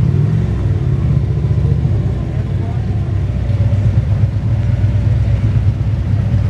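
Motorcycle engine running close by: a loud, steady, pulsing low rumble, with faint voices beneath it.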